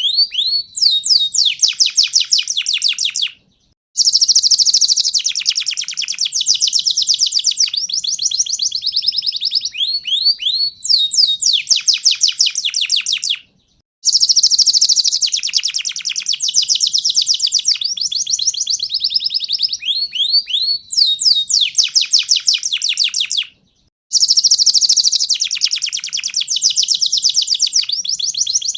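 Domestic 'panda' canary singing energetically: long, fast trills and rapid rising chirps, high-pitched. The song comes in bouts of about ten seconds, each broken by a brief silence, and the bouts repeat almost identically, as in a looped song recording.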